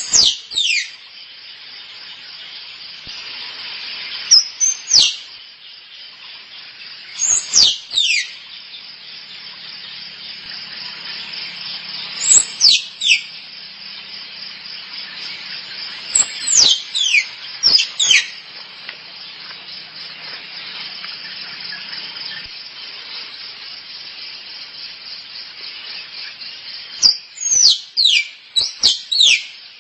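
Tree squirrel giving its mating call: short, high, piercing notes that fall steeply in pitch, in clusters of two to four a few seconds apart, with a long pause before a last cluster near the end. A steady shrill insect chorus runs beneath.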